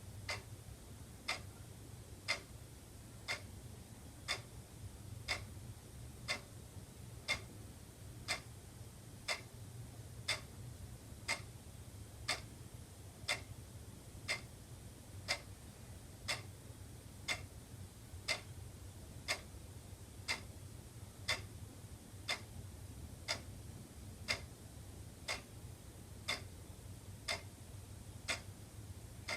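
Wall clock ticking steadily, one tick a second, over a faint low hum.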